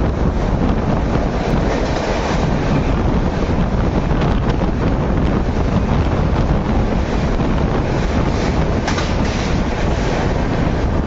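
Karnavati Express coach running at speed through a station, heard from the open doorway: a steady rumble of wheels on the rails mixed with wind rushing on the microphone, with a few sharper clacks over rail joints.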